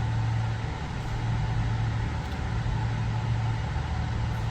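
Steady low engine drone with a constant deep hum, heard from inside a car waiting on a ferry's car deck while vehicles are unloaded.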